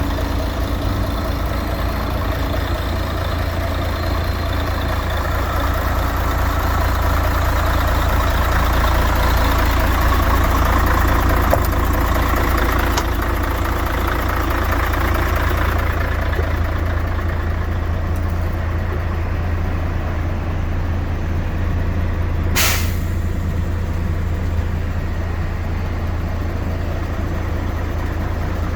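Mercedes-Benz Actros 1843 tractor unit's diesel engine running with a steady low rumble. About two-thirds of the way through comes one short, sharp hiss of released compressed air from the truck's air system.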